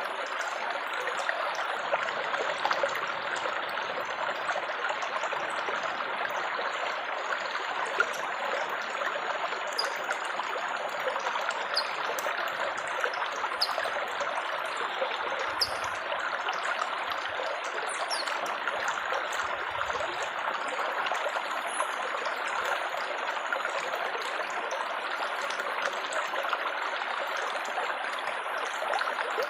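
Continuous gurgling and splashing of running water, like a small stream or trickle, steady with no breaks.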